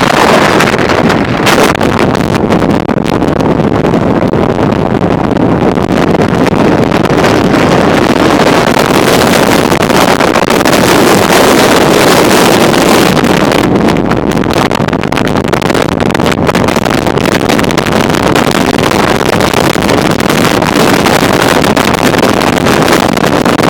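Strong mountain-top wind buffeting the microphone: a loud, continuous rumbling roar that gusts unevenly, with no pauses.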